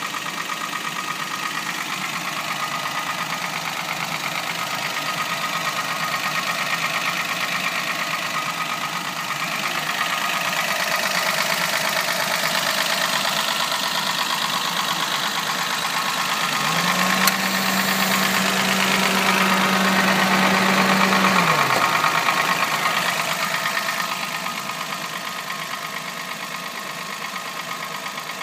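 Suzuki Wagon R Stingray X's 660 cc three-cylinder engine idling steadily. About two-thirds of the way through, a steady hum rises in pitch, holds for about five seconds, then falls away.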